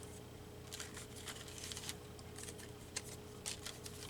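Faint rustling and light ticks of paper pieces and cut-outs being handled and sorted, a few soft taps about every half second, over a steady low hum.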